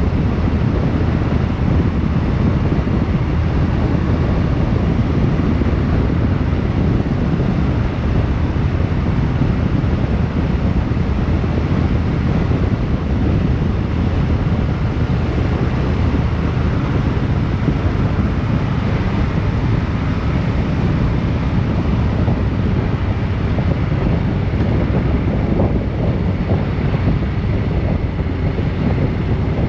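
Steady wind noise rushing over the microphone, with the low engine and road noise of a vehicle underway at a steady pace.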